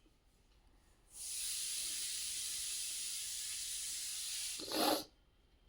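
A person making a long, steady shushing hiss, the kind used to calm a dog toward sleep. It starts about a second in, lasts about three and a half seconds, and ends in a short, louder rush.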